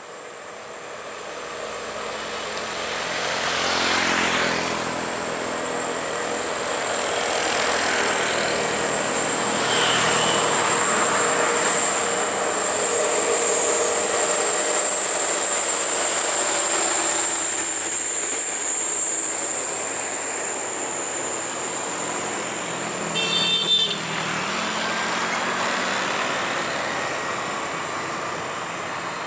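Heavy diesel trucks passing one after another on a steep highway climb, engines labouring with tyre noise swelling and fading as each goes by. A steady high whine runs underneath, and a brief high-pitched sound cuts through about three quarters of the way in.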